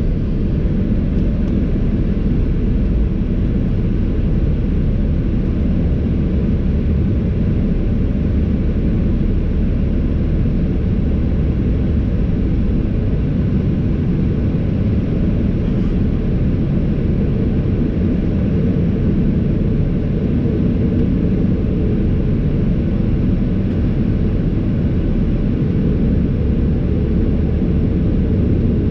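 Steady low rumble inside the cabin of a Boeing 737-800 in motion: engine and airflow noise from the CFM56-7B turbofans and the airframe, unchanging in pitch and level.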